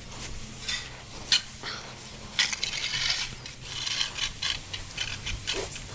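A hand tool scraping and rustling through stall bedding: irregular clicks and scrapes, with a longer rustle about two and a half seconds in.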